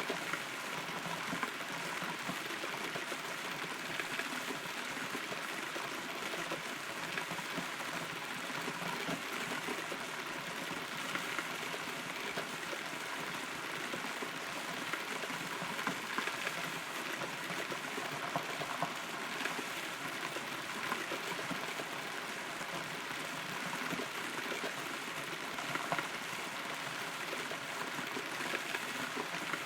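Steady rain heard from inside a hollow rotten tree: an even hiss of falling water with scattered, sharper individual drops.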